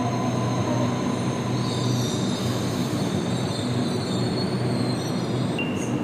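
Commuter train running along the track, heard from inside a carriage: a steady rumble and hum with a thin, high, steady squeal or whine over it.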